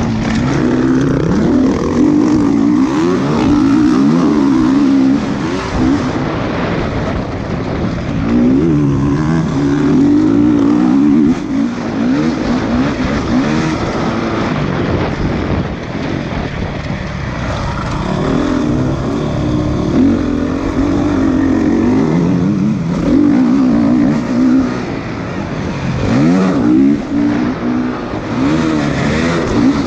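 Motocross motorcycle engines revving, the pitch rising and falling repeatedly as the bikes accelerate and back off.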